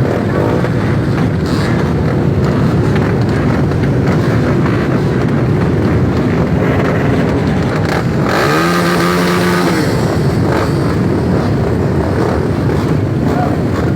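Motocross dirt bike engine running hard, a loud, rough, continuous noise. About eight seconds in, a clearer engine note bends in pitch for a second or two.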